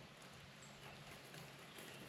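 Near silence: faint outdoor background with a few faint clicks.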